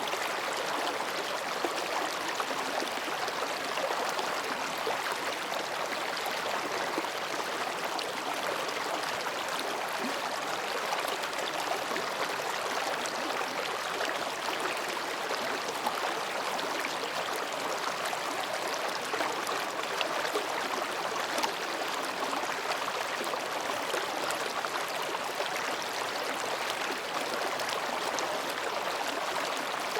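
Mountain stream flowing between rocks, a steady babbling with small splashes and gurgles.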